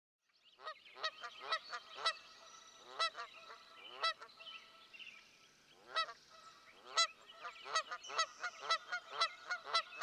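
A flock of geese honking, many short calls following one another and overlapping.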